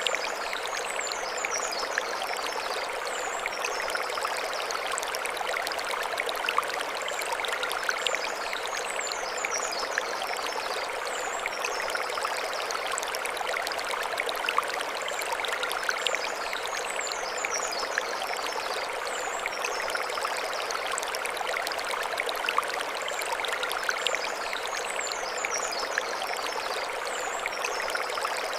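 Mountain stream running steadily over stones, a constant rushing splash. A short high chirping phrase recurs about every eight seconds.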